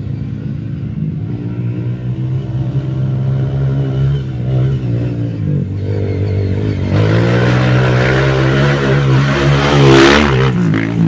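Dirt bike engine running steadily, then revving harder and rising in pitch from about seven seconds in as the bike climbs a steep hill. It is loudest near the end.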